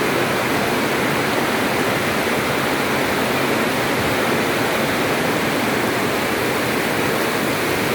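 Rain pouring down steadily, a loud unbroken hiss with no let-up.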